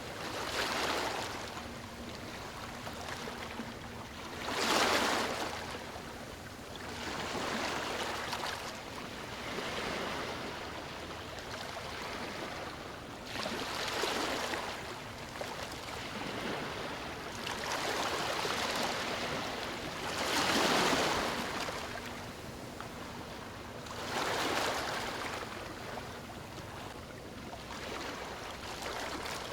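Sea waves breaking and washing up a beach, each swell rising and falling about every three to four seconds, a few louder than the rest.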